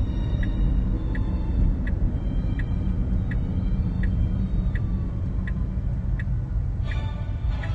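Tesla's turn-signal indicator ticking about once every 0.7 seconds over the steady low road rumble inside the car's cabin.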